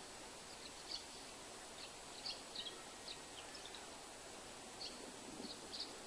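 Faint background noise with short, high bird chirps scattered through it, several per second at times, in no steady rhythm.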